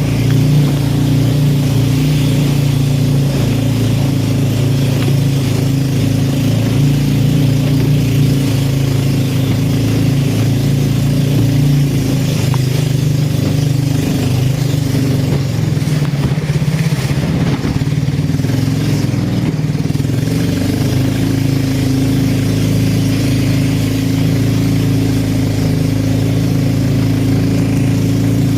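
An engine running steadily, its note shifting briefly about halfway through before settling again.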